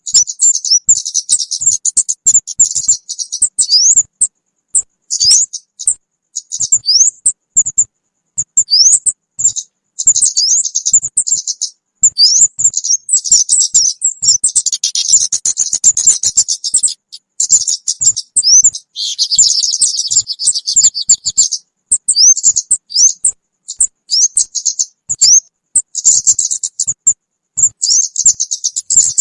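Kemade bird lure call (suara pikat): dense high-pitched chirping and quick twittering notes from several overlapping small-bird voices, with almost no gaps, thickening into a busier chatter around the middle.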